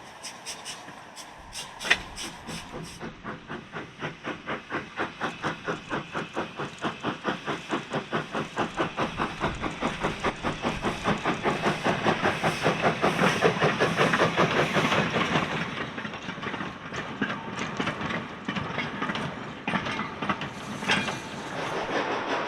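Steam locomotive working past, its exhaust beats in an even rapid rhythm. The chuffs grow louder to a peak about two-thirds of the way through, then fade away.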